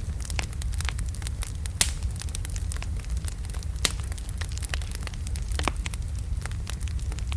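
Wood logs burning in a fireplace: a steady low rumble of the fire with frequent irregular pops and crackles, the sharpest about two, four and six seconds in.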